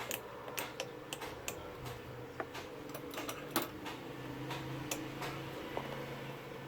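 Irregular light clicks and taps of small hand tools working on a circuit board, several a second at times, over a faint steady hum.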